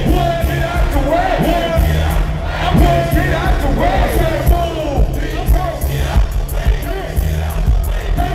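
Loud live hip hop through a PA system, with a heavy bass beat, a voice over it and a crowd shouting along.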